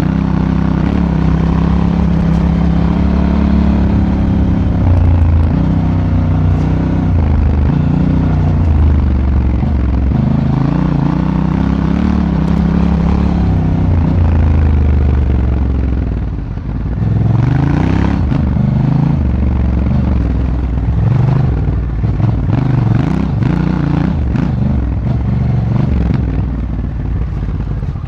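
Honda Africa Twin motorcycle engine heard from on board while riding, its pitch rising and falling with the throttle and gear changes. About two-thirds of the way through the engine drops off briefly, then the throttle comes on and off in short bursts with clattering knocks mixed in.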